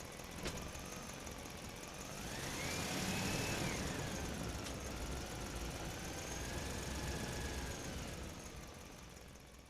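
A motor or engine running, its whine rising about two seconds in, then falling and wavering. There is a sharp click about half a second in, and the sound fades out near the end.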